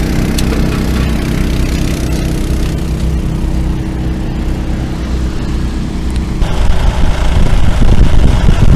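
Engine running steadily with an even hum. About six and a half seconds in, the sound switches abruptly to a louder, rougher, fluctuating rumble.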